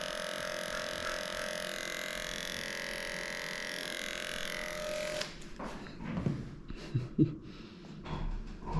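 Electric dog grooming clipper running with a steady, even hum, switched off abruptly about five seconds in, followed by a few knocks and handling thumps.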